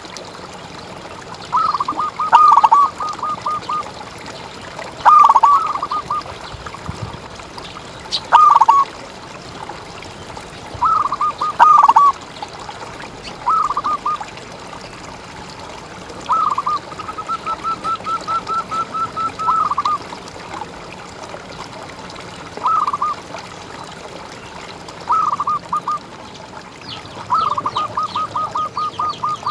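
Zebra dove (perkutut) cooing: short phrases of rapid, clipped notes repeated every few seconds, with one longer run of quick notes held for several seconds about halfway through.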